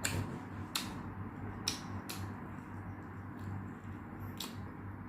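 Close-up eating sounds: about five short sharp clicks and smacks while chewing, spaced irregularly over a low steady hum.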